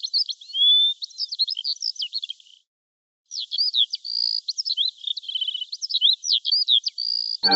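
Songbird song: a quick, varied run of high chirps, rapid trills and slurred whistles, breaking off for under a second a little before the middle and then resuming.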